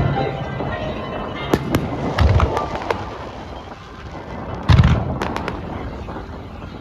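Aerial fireworks shells bursting in a loose series of deep booms with crackling, the loudest about five seconds in, over music playing with the show.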